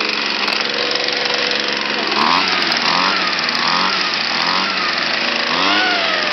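Small gas engine running, its pitch rising and falling several times from about two seconds in as it is revved.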